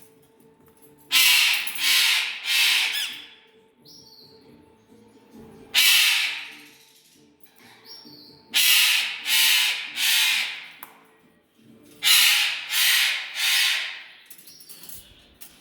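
A pet bird giving loud, harsh squawks in runs of two or three, a fresh run every few seconds, over a faint steady hum.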